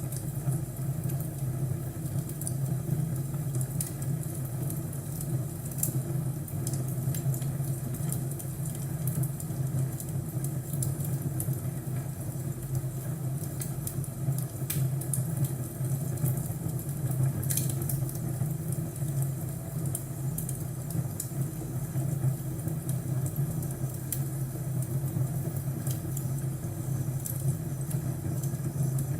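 Crackling fireplace: irregular snaps and pops of burning wood over a steady low rumble.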